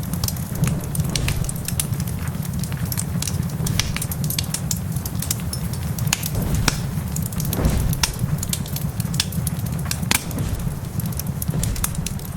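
Wood fire crackling, with frequent irregular sharp pops and snaps over a steady low rumble, mixed with the even hiss of rain.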